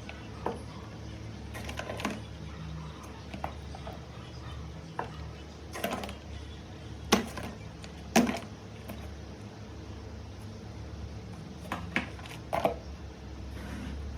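Irregular sharp clicks and clacks of small hard objects, about eight over several seconds with the loudest two near the middle, over a steady low hum.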